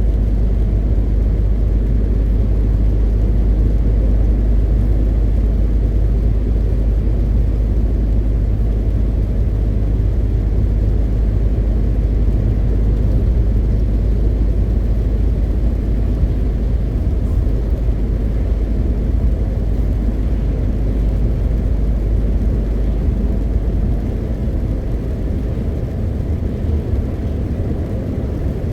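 MAN TGX 520 truck's inline-six diesel engine running under way, a steady deep drone with road noise. About 24 seconds in, the deepest note drops away and the sound gets a little quieter, as the engine eases off.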